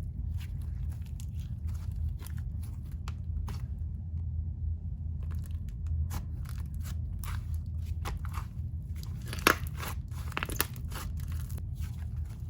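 Slime being squished and stretched by hand, giving off irregular small clicks, pops and crackles, with one sharper pop about nine and a half seconds in.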